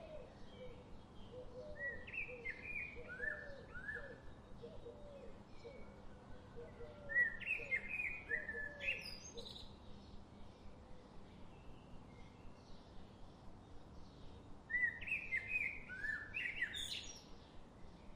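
Forest songbirds singing. One bird repeats a short phrase three times, about every six seconds: a run of quick falling notes ending in a sharp high upward note. Through the first half a lower-pitched bird repeats a quick series of short notes.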